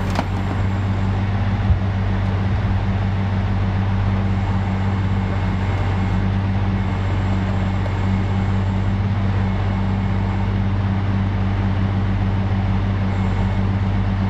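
A heavy vehicle's engine running steadily at constant speed: a low, even drone that neither revs up nor dies away.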